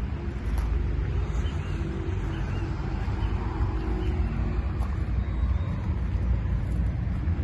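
Scania G 420 truck's diesel engine running steadily with a deep, even rumble.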